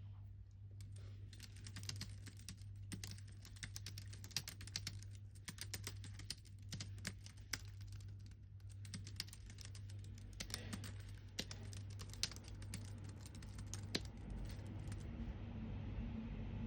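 Typing on a computer keyboard: quick irregular runs of keystrokes with short pauses, stopping about two seconds before the end. A steady low hum runs underneath.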